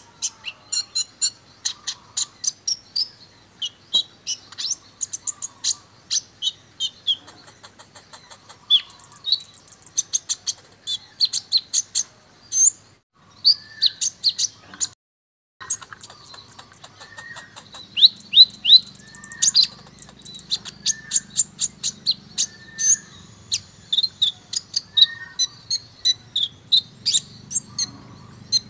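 Van Hasselt's sunbird (kolibri ninja) song: a fast, high-pitched stream of twitters and rapid trills. The song breaks off briefly about fifteen seconds in.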